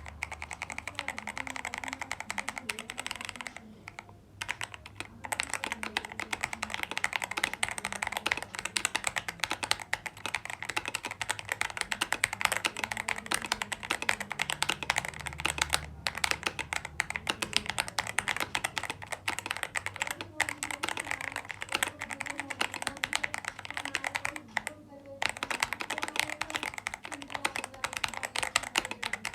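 Fast, continuous typing on a Tester 68 mechanical keyboard with Shimmer XDA-profile keycaps and Gateron G Pro brown switches: a dense stream of soft, creamy key clacks. The typing breaks off briefly about four seconds in and again about twenty-five seconds in.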